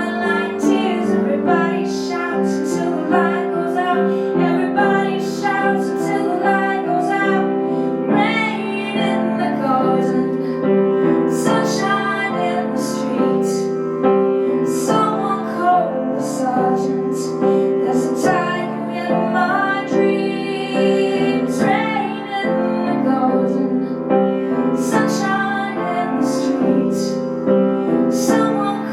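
A song with piano accompaniment and a woman singing over held chords.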